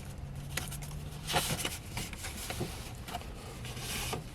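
Paper rustling and light clicks as a greeting card is handled, with a brief louder rustle about a second and a half in, over a faint low hum.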